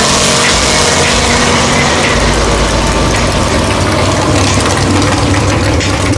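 Off-road vehicle engine running loudly and steadily.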